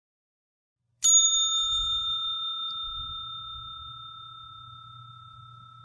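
A single bell strike about a second in, ringing on with a clear high tone and slowly fading.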